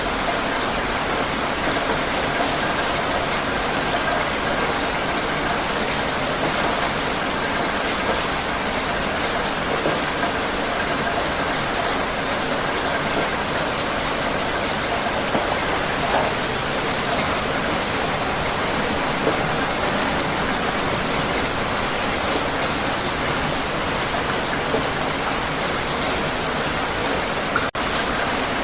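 Heavy rain falling steadily, a dense even hiss of drops on surfaces. A split-second drop in level comes near the end.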